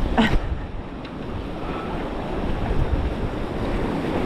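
Ocean surf washing at the jetty, with wind buffeting the microphone; a brief louder burst comes just after the start.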